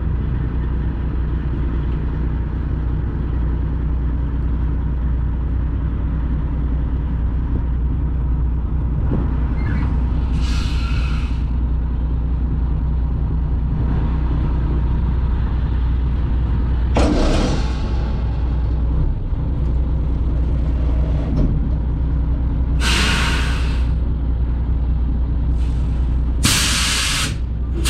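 Heavy truck's Detroit diesel engine running steadily with a deep, even drone, broken four times by short bursts of air hiss from the truck's air system.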